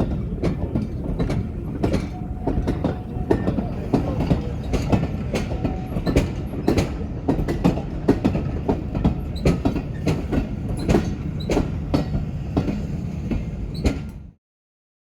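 Train running on the rails with a steady rumble and many sharp clicks from the wheels over rail joints and track; the sound cuts off suddenly near the end.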